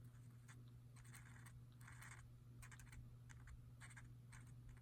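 Near silence: a few faint scratching strokes of a colouring tool on paper, over a steady low electrical hum.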